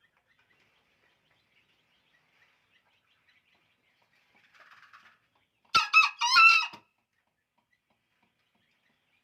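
Green junglefowl crowing once: a short, loud call of a few quick notes lasting about a second, a little past the middle, with a faint softer sound just before it.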